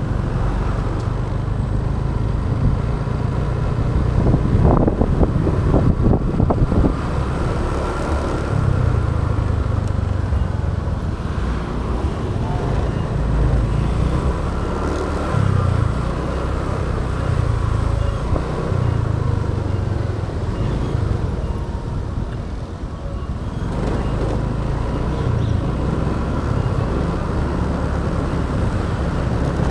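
Motorbike engine running under way, its low pitch stepping up and down with the throttle, mixed with wind and road noise on an action camera; louder and rougher for a few seconds about four seconds in.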